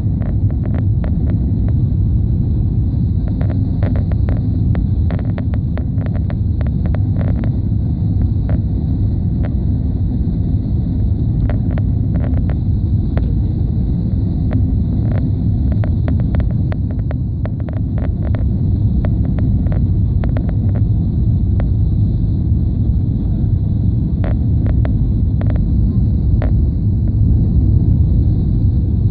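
Steady low rumble of an airliner's engines and airflow heard from inside the passenger cabin, with frequent short rattles and clicks throughout.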